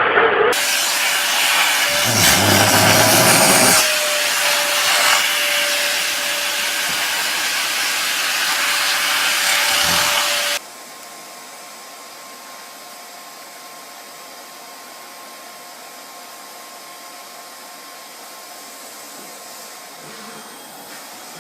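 Vacuum cleaner motor running with a steady whine over a loud rush of air. About halfway through it cuts off abruptly, leaving a much quieter steady hum.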